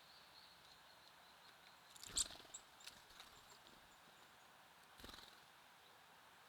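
Small birds at a feeder, heard faintly: a row of soft high chirps fading out at the start, then a sudden short flurry with a sharp high chirp about two seconds in, and a softer one about five seconds in.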